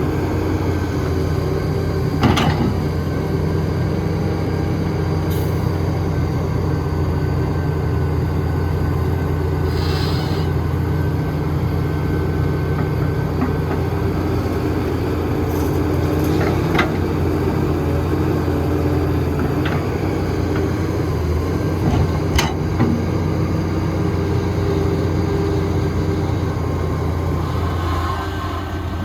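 Diesel engine of heavy construction machinery running steadily, with a few short sharp knocks scattered through it.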